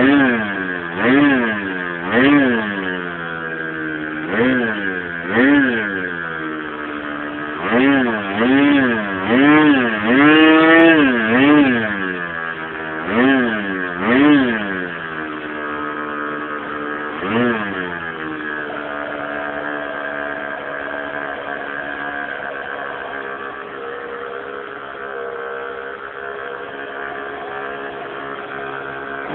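O.S. 46 FX two-stroke glow engine of an RC airplane, revved up and back down in quick blips about once a second. From about 18 seconds in it runs at a steady speed.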